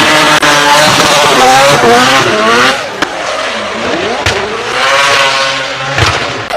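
Four-rotor Mazda RX-7 rotary race engine revving hard, its pitch repeatedly climbing and falling back through gear changes. It drops off sharply about three seconds in and again near the end.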